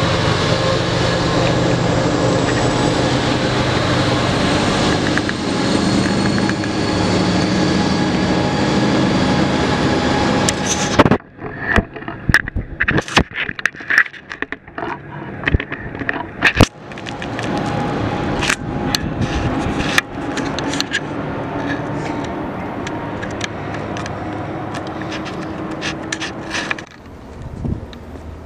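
Passenger train passing close below, a loud steady rumble with a held engine drone. About eleven seconds in it cuts off abruptly, and what follows is a quieter, distant approaching train broken by many sharp clicks and knocks.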